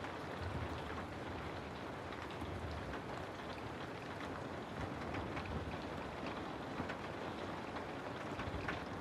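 Steady rain falling on a house, a constant hiss with many small scattered drop ticks.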